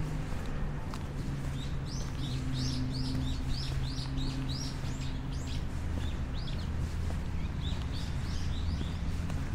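Small birds chirping: a quick series of short, high calls, about three a second, starting a second or two in and thinning out near the end, over a steady low hum.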